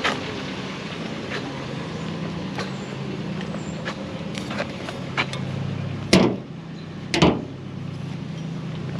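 Vehicle engine running steadily with a low hum. Near the end come two loud bangs about a second apart, with a few lighter clicks scattered through.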